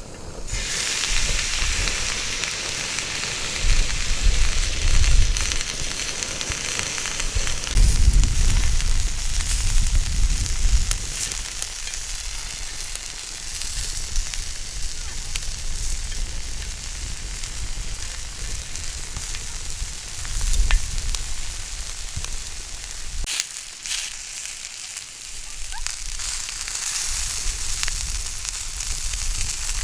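Food sizzling steadily in a hot pan, starting abruptly, with scattered small crackles and pops. There are low rumbles through the first ten seconds or so.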